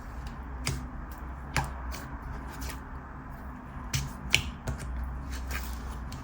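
Whipped chewy slime being stretched and squished in the hands, giving scattered sharp clicks and pops, the clearest about one and a half seconds and four seconds in.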